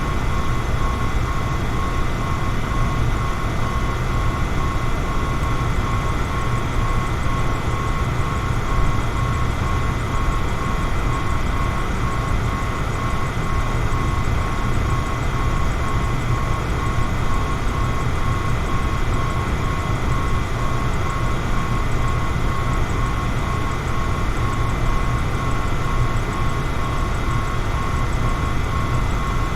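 Electric fan running steadily: an even rush of air with a low rumble and a thin, steady motor whine over it.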